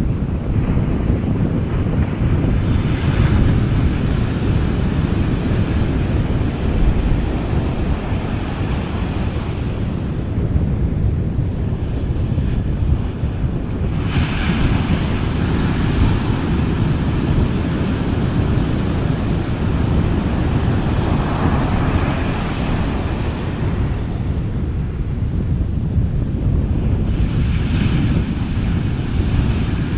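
Small sea waves breaking and washing up a beach, with a swell of hiss every several seconds (about four times). Under them runs a steady low rumble of wind on the microphone.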